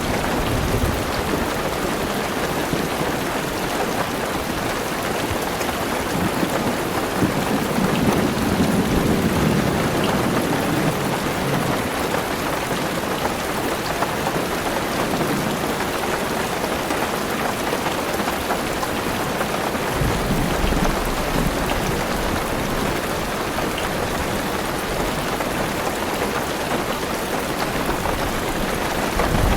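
Heavy rain falling steadily on a car's roof and windows, heard from inside the car. A low rumble of thunder swells for a few seconds about a quarter of the way in, and a fainter low rumble comes around two-thirds through.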